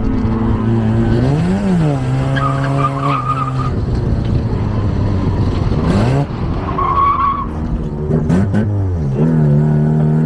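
Drift car engine revving up and down repeatedly while the car slides, with short tyre squeals about two and a half seconds and seven seconds in.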